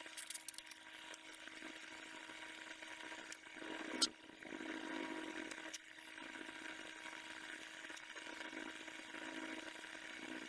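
Steady low hum with a few sharp metal clicks and taps, the loudest about four seconds in: a rear brake caliper bracket and its bolts being handled and fitted.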